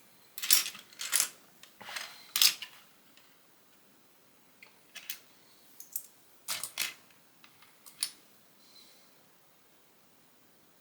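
Plastic Lego bricks clicking and rattling as they are handled: a few quick clusters of clicks at first, then sparser single clicks, stopping for the last couple of seconds.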